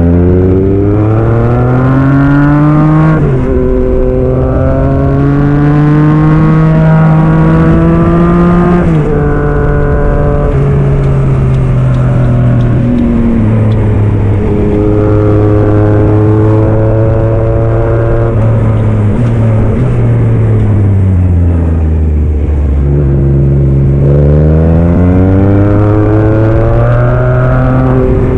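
Yamaha MT-09 SP's 890 cc inline-three engine through an aftermarket Black Widow exhaust, pulling hard with its pitch climbing, dropping sharply at each gear change, holding steady while cruising, then falling off as it slows and climbing again near the end.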